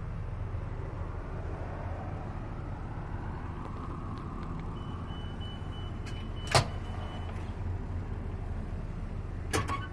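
A steady low hum, with a sharp click about six and a half seconds in and another near the end.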